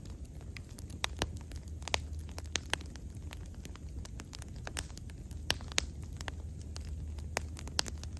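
Wood fire burning, with irregular sharp crackles and pops from the burning wood over a low, steady rumble.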